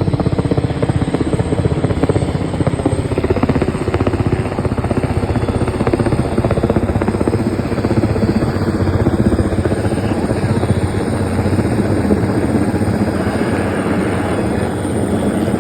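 Helicopter rotor and turbine running loud and steady, with a rapid, even blade chop, as it carries an HVAC unit on a lift line.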